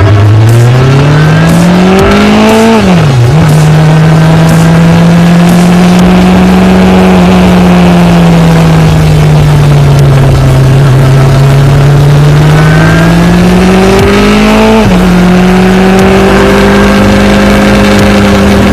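Motorcycle engine under way, revving up through a gear and dropping in pitch at an upshift about three seconds in. It then holds a steady cruise that slowly rises and falls, and climbs again to another upshift around fifteen seconds in.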